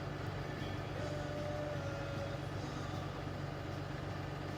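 Heavy truck's diesel engine idling steadily with a low, even hum, and a faint thin whistle for about a second and a half near the start.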